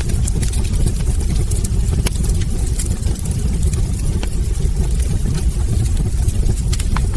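Wood fire burning in a fireplace: a steady low roar of flames with scattered sharp crackles and pops from the logs.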